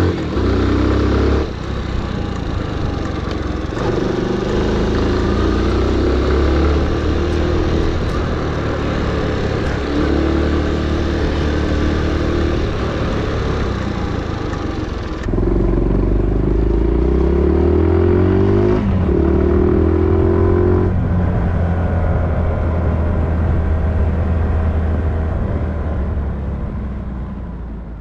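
Motorcycle engine running while riding, rising in pitch as it accelerates and dropping back at gear changes.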